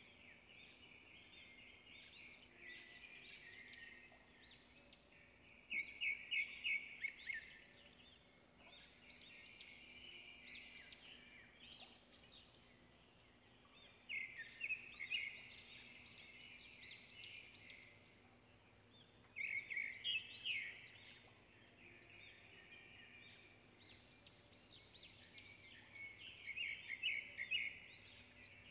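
Birds chirping in several bursts of quick, high notes, with quieter chirping between them, over a faint steady hum.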